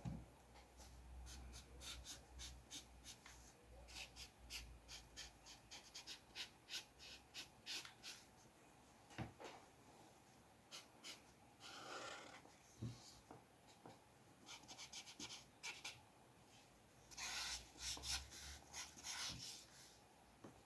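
Faint, short scratchy strokes of a drawing tool on paper, coming one after another, with denser runs of strokes about twelve seconds in and again near the end.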